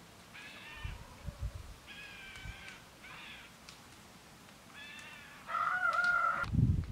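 Birds calling: several short, harsh pitched calls, then a louder, longer call about five and a half seconds in. A few dull low knocks come about a second in.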